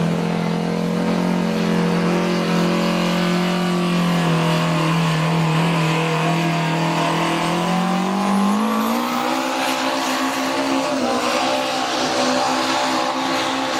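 A pulling machine's engine running hard under load, one steady engine note that sags slightly, then climbs to a higher pitch about two-thirds of the way through and holds there.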